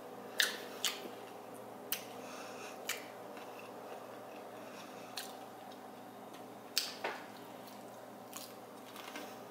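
Close-up eating of a crisp fried tortilla taco shell: a series of short, sharp crunches a second or two apart as it is bitten and chewed.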